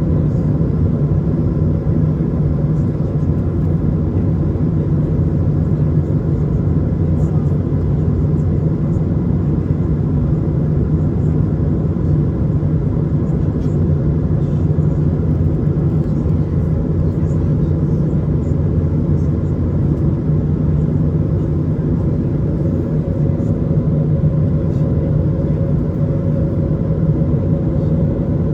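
Steady cabin rumble of an Airbus A220 airliner, the noise of its Pratt & Whitney PW1500G geared turbofan engines and airflow, with a few faint steady tones over a deep, even roar.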